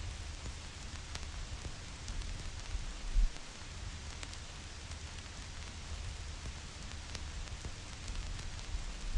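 Vinyl record surface noise: steady hiss with scattered crackles and pops from the stylus in the groove, over a low rumble, with a louder low thump about three seconds in.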